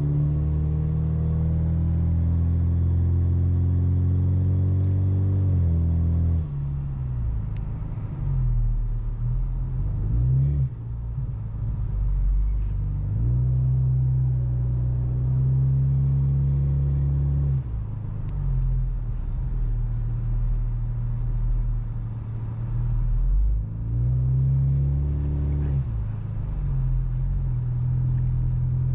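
Ford Mustang EcoBoost's turbocharged four-cylinder engine with a full exhaust, heard from inside the closed cabin, droning loudly under acceleration. Its pitch climbs slowly, then drops off sharply about six seconds in, again about two-thirds of the way through, and once more near the end, as it shifts or lets off.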